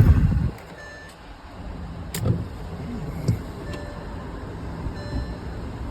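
Jump-start attempt on a car with a flat battery: a brief loud low burst at the start, then two sharp clicks about two and three seconds in, over a steady engine hum. The car does not start.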